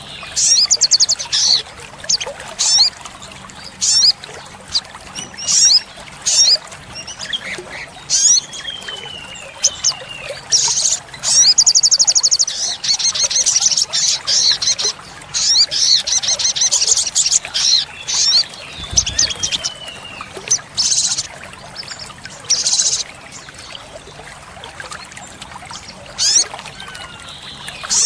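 Olive-backed sunbird singing: sharp, high-pitched chips and fast trills repeated every second or two, with a longer run of rapid trills midway and a few short falling whistles.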